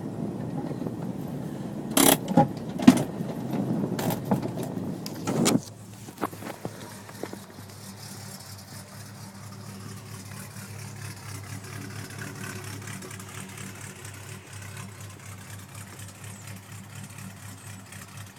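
Land Rover 90's Rover V8 with a stainless sports exhaust running, heard from inside the cab, with several sharp knocks in the first few seconds. About five and a half seconds in the engine note drops suddenly to a quieter, steady idle: the V8 idling from cold with no choke.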